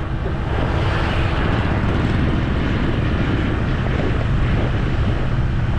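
Steady low rumble of a vehicle's engine and road noise, running without change.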